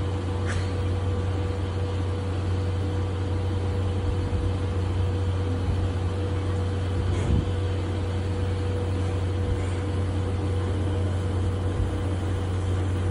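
Steam locomotive and brake van rolling slowly along the track, giving a steady low rumble with a steady hum, and a couple of faint clicks.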